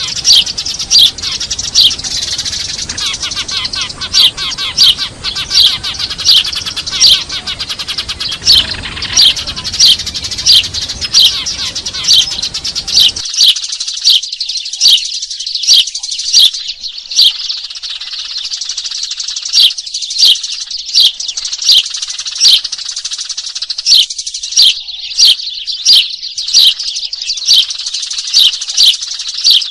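Eurasian tree sparrows chirping noisily and without pause in rapid, repeated short chirps, with a louder chirp about every second and a half: a sparrow lure call used to draw wild sparrows in. A low background hiss under the chirping cuts off abruptly about halfway through.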